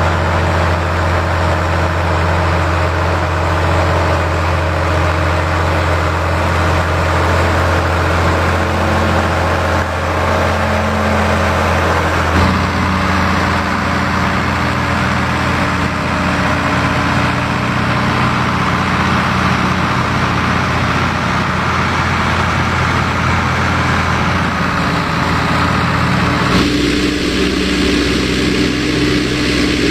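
Ford farm tractor's diesel engine running steadily. The engine note changes abruptly twice, about 12 seconds in and again near the end.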